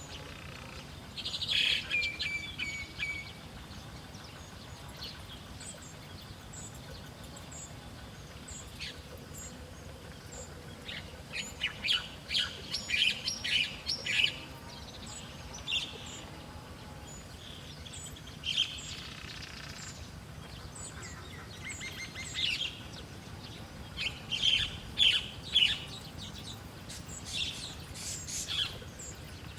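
Small wild birds chirping in quick bursts of short, high calls, coming in several bouts with pauses between them.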